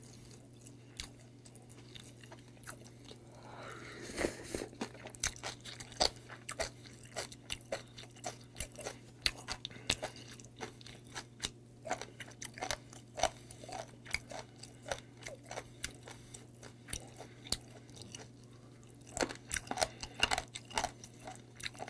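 Close-miked chewing and biting of braised mideodeok (warty sea squirt) in pollock-roe sauce, a steady run of small wet crunches and clicks as the chewy skins are bitten, thickest near the end.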